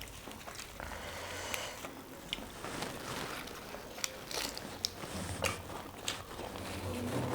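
A person eating close to the microphone: chewing and biting, with irregular small crunches and clicks.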